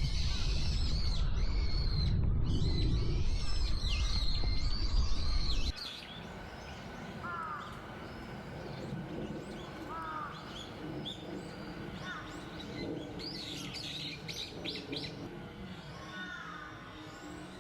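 Wild songbirds calling: a dense run of high chirps over a low rumble that cuts off suddenly about six seconds in, then scattered single down-slurred calls and a few high chirps.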